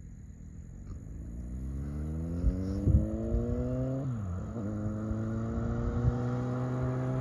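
2008 Kawasaki Concourse 14's inline-four engine (the ZX-14's engine) accelerating hard through the gears, getting louder. The pitch climbs steadily, drops at an upshift about four seconds in, then climbs again. A few low thumps sound on the microphone.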